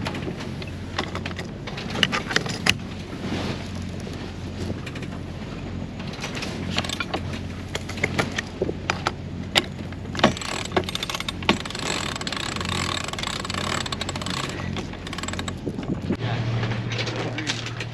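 A sailboat's auxiliary engine drones steadily under irregular clicks and knocks from deck gear as sheets and lines are handled. Near the end the drone shifts to a different, steadier pitch.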